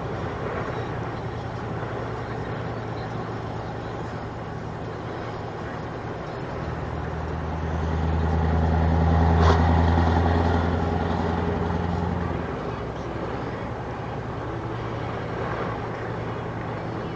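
Scania R500 truck's V8 diesel engine running steadily, swelling to a louder, deeper drone for several seconds around the middle before settling back, with a brief sharp click at the loudest point.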